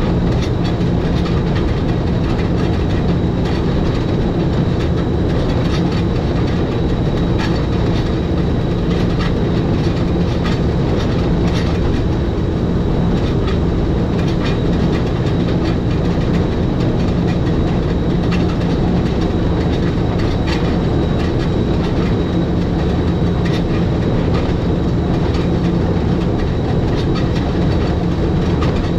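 Electric rack-railway train of the Schynige Platte Railway running steadily downhill, with a constant hum and scattered clicks of the wheels over the track.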